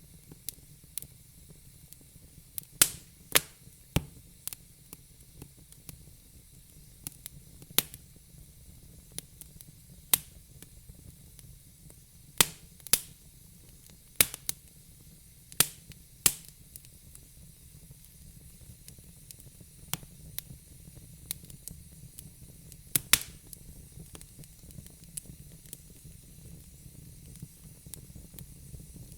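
Fire crackling: irregular sharp pops and snaps over a faint low steady hiss. The pops come thickest in the first half and near the end of that stretch, then thin out.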